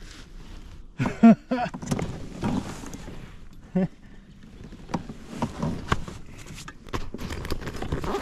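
Scattered knocks and taps, handling noise on a kayak while a freshly caught bass is held, with a short vocal sound about a second in and another near four seconds.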